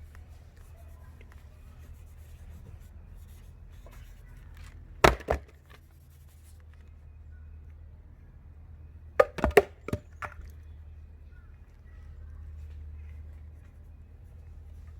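Sharp wooden knocks of firewood being handled: two hits about five seconds in, then a quick run of four or five about nine to ten seconds in, over a low steady rumble.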